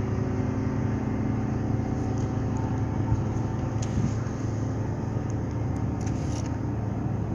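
Steady low hum of a ship's diesel engine running during docking, with a few faint clicks over it.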